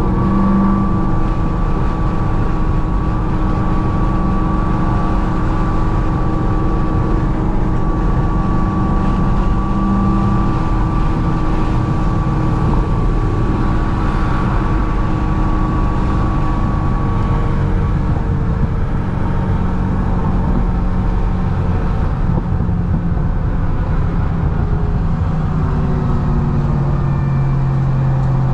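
Supercharged V8 of a C6 Corvette ZR1 running at a steady highway cruise, with a constant engine drone and road noise. A steady high tone sits over the engine note until roughly two-thirds of the way through.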